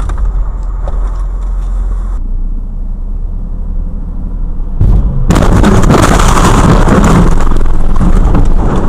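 Car driving noise picked up by a dashcam, muffled at first. About five seconds in it turns abruptly much louder and harsher, a rushing rumble that keeps going.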